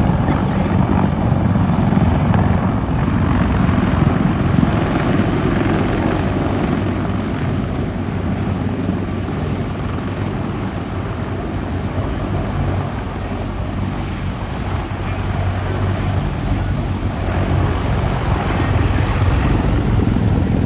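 CH-53 Super Stallion heavy-lift helicopter flying by, its three turbine engines and big rotor making a loud, steady, low-pitched sound. It eases off a little in the middle and grows louder again near the end.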